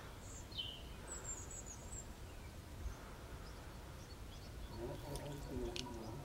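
Faint outdoor background with a steady low rumble and a few short, high bird chirps in the first two seconds.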